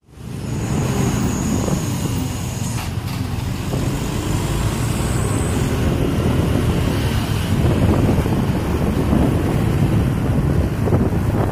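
Truck engines running steadily among road traffic, a dense low rumble with a faint high whine in the first half.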